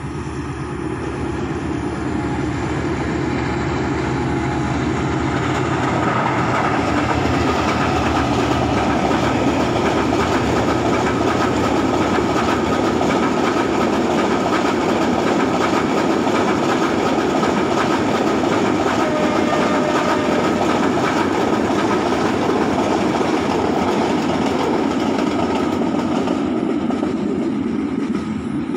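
Diesel-hauled passenger train passing, its wheels clattering steadily on the rails. The sound builds over the first few seconds as the locomotive comes near and fades near the end as the last coaches move away.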